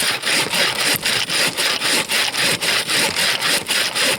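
Bow saw cutting a frozen fir log in rapid, even back-and-forth strokes, about three a second, with a dry rasp on each stroke. The blade runs freely in the cut without binding.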